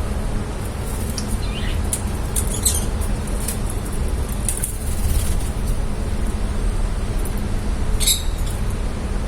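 Lovebirds giving short, high chirps a few times, the brightest about eight seconds in, over a steady low rumble.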